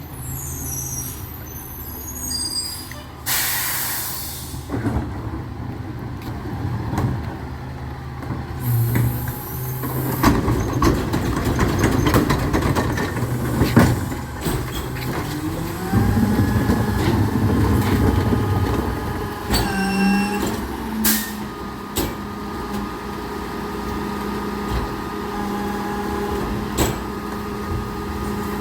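Recycling truck at work: a short air-brake hiss about three seconds in, the engine running and working harder through the middle, and a steady whine joining in about halfway through.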